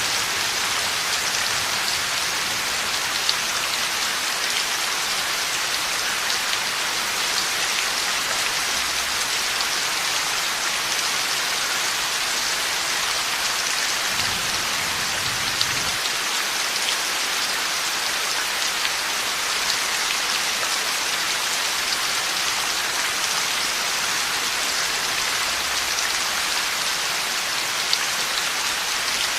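Heavy rain falling steadily: a dense, even hiss of drops with a few sharper individual hits standing out here and there.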